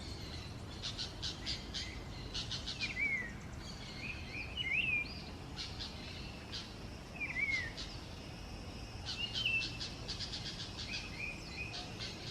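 Cak wilis abu, a wild songbird, singing: repeated short phrases of fast rattling notes mixed with brief downslurred whistles, a phrase every second or two.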